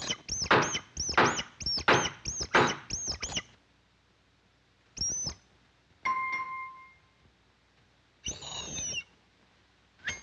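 Cartoon sound effects: a quick run of about ten repeated high, arching cries over the first three and a half seconds, then three short separate effects, one with a brief held ringing tone.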